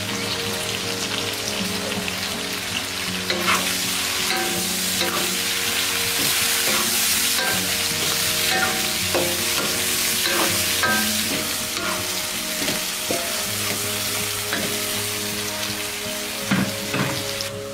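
Pork belly frying in a wok with shallots, ginger, tomato and chopped chilies, sizzling steadily while a wooden spatula stirs and scrapes it, with short scraping knocks scattered through.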